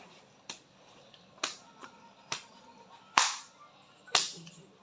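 A series of sharp snapping clicks, five of them just under a second apart, the fourth the loudest.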